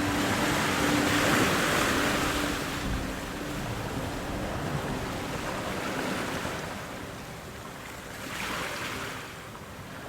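Ocean surf: waves wash in with a rushing hiss, one big swell over the first few seconds and a smaller one a little before the end, easing off between them.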